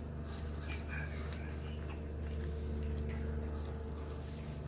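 Chewing and biting into a sauce-coated chicken wing close to the microphone, with soft wet mouth noises, over a steady low hum.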